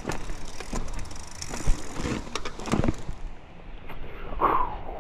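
Mountain bike clattering over a rough, water-damaged dirt track: irregular knocks and rattles from the bike over steady tyre and ground noise.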